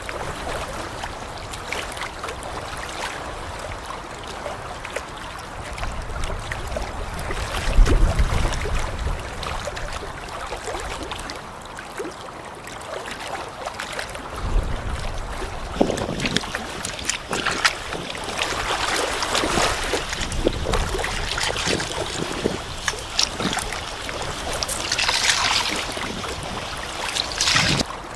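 Lake water sloshing and lapping, with scattered small clicks. Gusts of wind rumble on the microphone about eight seconds in and again around the middle.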